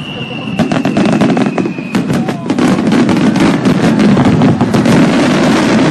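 Fireworks crackling: a dense run of rapid pops and bangs that thickens about half a second in. A high whistle slides slowly down in pitch and stops about two seconds in.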